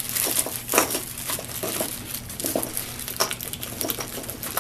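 Hands handling small hardware: irregular rustling and light clicks of uneven strength, with a steady low hum underneath.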